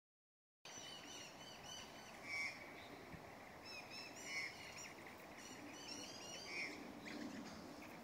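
Birds calling: a rapid run of short, high chirping notes, with a louder call about every two seconds. The sound starts about half a second in.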